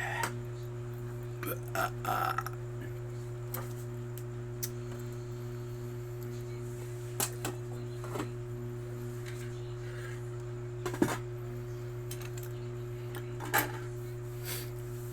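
Eating utensils clinking lightly against a plate now and then, about ten short, scattered clicks, over a steady low hum.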